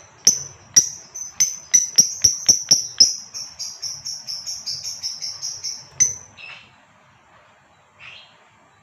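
Female lovebird giving a rapid series of sharp, high chirps that speed up to about five a second, then stop about six seconds in. A couple of fainter short calls follow.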